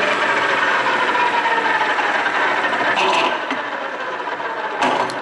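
Milling machine's spindle drive and gearbox running, a dense mechanical whine of meshing gears with slightly falling tones. It drops in level about three seconds in, and a short sharp knock follows near the end.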